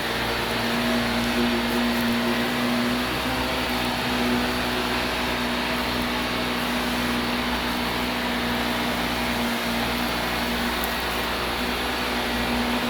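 Vacuum cleaner running steadily: a constant motor hum under an even rushing hiss of air.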